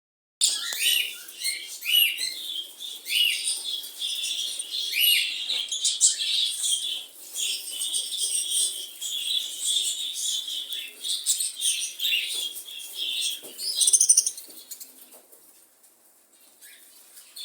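A group of cockatiels and lovebirds chirping and calling together in quick, high chirps, with wing flapping. The calls thin out near the end.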